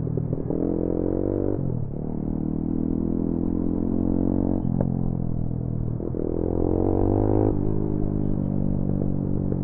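Motorcycle engine running under way, heard from the rider's own bike. Its pitch drops abruptly about two seconds in and again near five seconds, then climbs steadily as it accelerates around six to seven seconds in.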